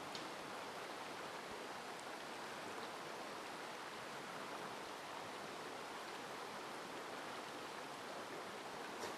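Mountain stream running, a steady even rush of water, with a faint click near the end.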